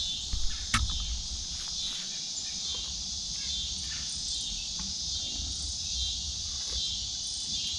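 Steady chorus of crickets and other insects, a continuous high trill, with one sharp click just under a second in and low rumbling handling noise near the microphone.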